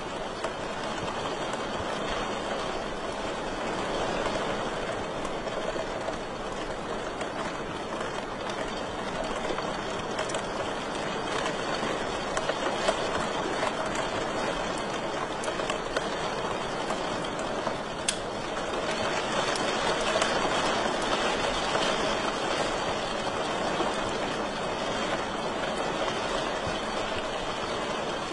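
Wood fire crackling steadily in a fireplace: a dense hiss of small crackles with a few sharper pops.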